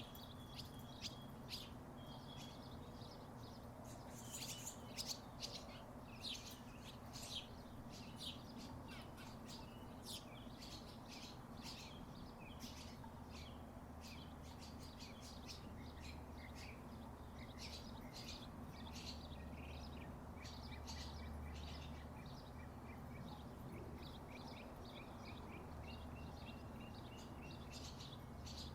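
Wooden tiki wind chimes knocking together irregularly in the breeze, light clacks coming in loose clusters, with birds chirping over a steady low hum.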